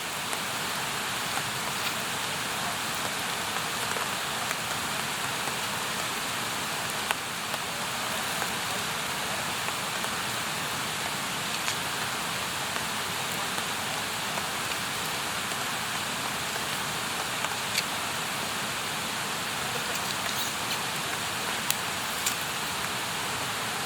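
Campfire burning with a steady hiss, broken by a few sharp crackling pops from the burning wood.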